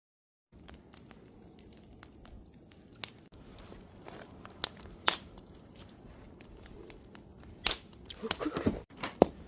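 Wood campfire crackling, with irregular sharp pops over a low steady hiss of burning; it starts about half a second in, and the pops come thicker near the end.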